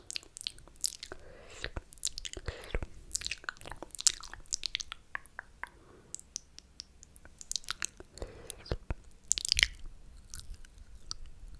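Close-miked wet mouth sounds: slurping and sucking with an irregular run of sharp lip smacks and tongue clicks, a few longer hissing slurps among them.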